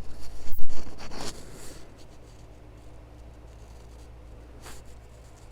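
Arvin 213 electric heater's fan motor running with a steady low hum, after a second or so of rustling and knocking handling noise at the start.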